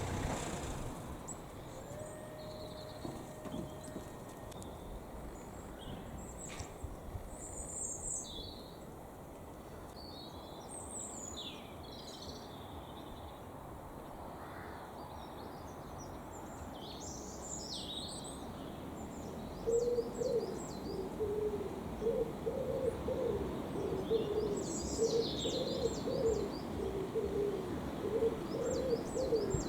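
Pigeon cooing in a repeated low phrase that starts about two-thirds of the way through, with high chirps of small birds scattered throughout.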